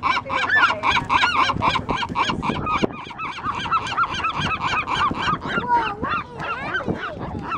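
Seagulls calling in a fast, unbroken run of short cries, several a second, amid a fight between gulls.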